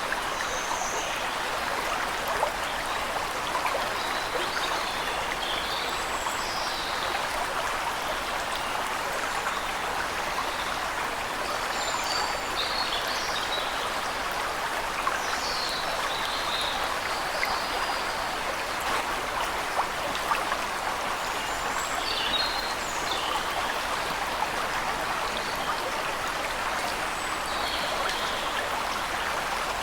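Waterfall rushing steadily, with faint high bird chirps scattered through it.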